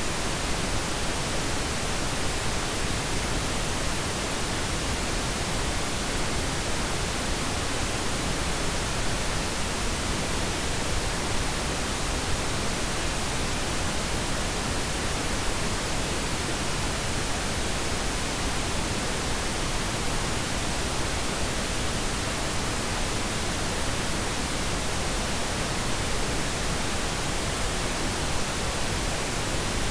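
Steady synthetic pink noise: an even, unchanging hiss spread across all pitches, softer in the highs than white noise.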